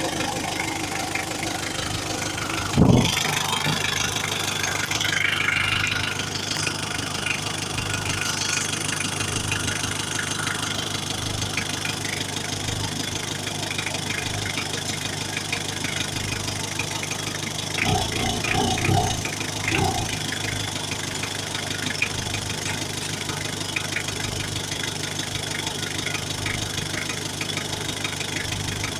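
Mitsubishi 4M40 four-cylinder diesel engine idling steadily, with a single sharp, loud knock about three seconds in.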